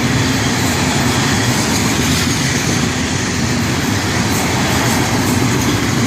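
Freight cars of a passing train rolling by close at hand, a steady rumble of steel wheels on the rails.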